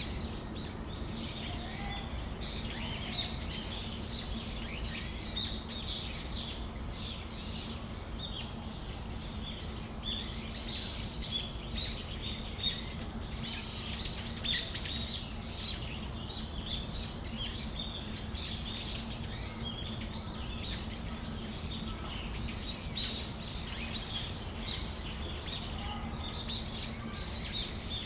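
Brown-eared bulbuls calling: many short, high chirps overlapping one another, with a few louder calls near the middle, over a steady low hum.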